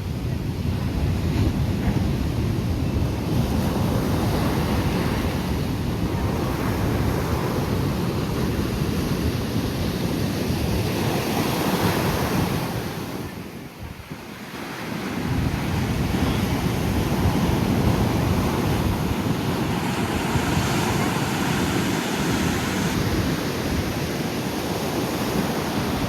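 Sea waves surging onto the shore in a continuous wash, with wind buffeting the microphone. The sound dips briefly about halfway through, then builds back up.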